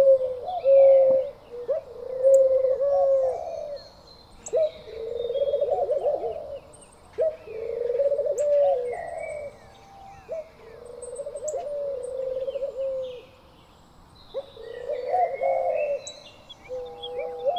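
Doves cooing over and over in phrases of low notes, some rolled into quick stuttering runs. Small birds chirp higher over them.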